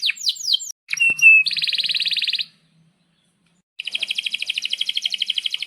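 Male domestic canary singing: a run of quick falling whistled notes, then after a click a few short notes and a fast rolling trill. After about a second of silence, another rapid rolling trill starts nearly four seconds in.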